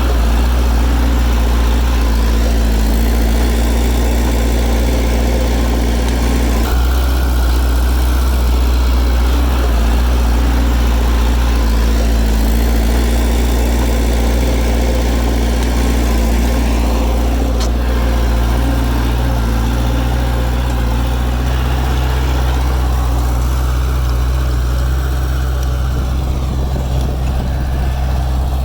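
Heavy diesel engine of earthmoving machinery running steadily, with a strong low hum and no sharp knocks.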